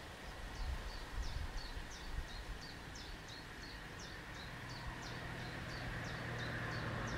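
A small songbird singing a fast, repeated two-part phrase, a high note sweeping down followed by a short lower note, about three times a second. Underneath are steady outdoor background noise and a low hum that grows louder in the second half.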